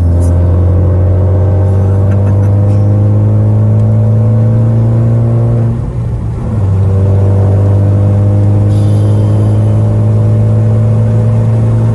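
Ford Focus ST's turbocharged 2.0-litre four-cylinder with a full straight-through exhaust, loud inside the cabin as the car pulls, its note climbing slowly. The note breaks off briefly about halfway through, then climbs again.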